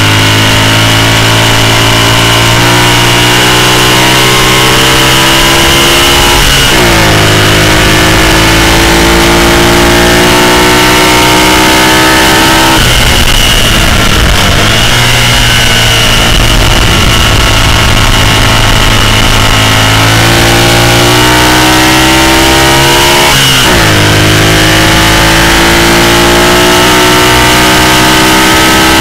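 Racing sidecar outfit's engine under hard acceleration, its pitch climbing through the gears with a quick drop at each upshift, about seven seconds in and again near the end. Around the middle the revs fall away for a few seconds as it slows for a corner, then climb again.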